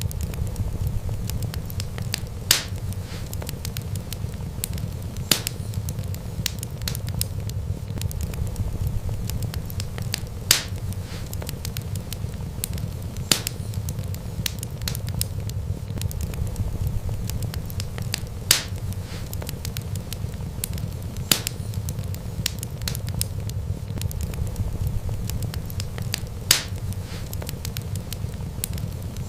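Wood fire burning steadily, with a low rumble under constant fine crackling and a sharper pop every few seconds.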